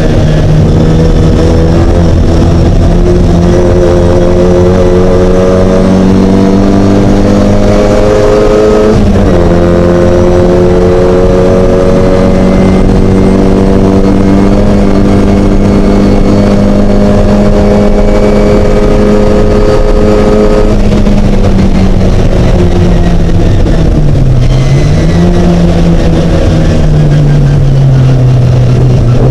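A Mini race car's engine running loud at high revs under sustained load. Its pitch dips briefly and recovers about nine seconds in, then holds steady until it falls off at about twenty-one seconds, dips again around twenty-four seconds and drops once more near the end, like gear changes and lifts for corners.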